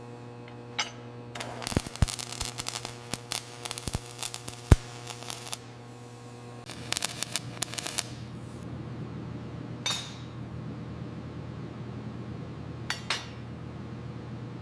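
A steady low electrical hum, with runs of light metallic clicks and clinks in the first half and a few sharper ticks near the end.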